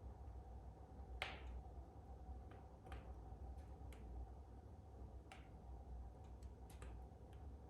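Wood fire crackling in a fireplace: scattered sharp pops, about ten in all, the loudest about a second in, over a faint steady low hum.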